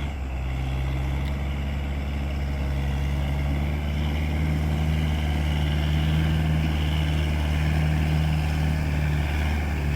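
Kubota MU4501 tractor's four-cylinder diesel engine running steadily with a low, even drone, a little louder from about four seconds in.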